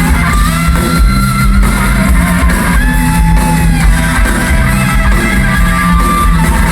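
Live rock band music: a lead electric guitar holding long, slightly bending notes over bass and drums.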